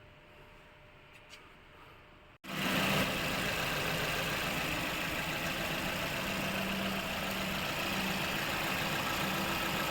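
Faint room tone, then a sudden cut about two and a half seconds in to a Maruti Baleno's engine idling steadily, with an even, unchanging note.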